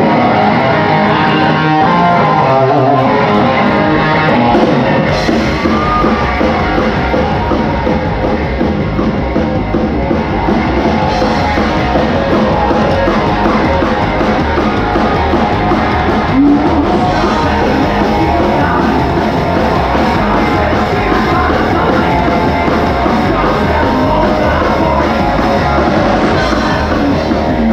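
Loud live rock music: a band with guitars and drums playing, with a singer, at a steady, driving beat.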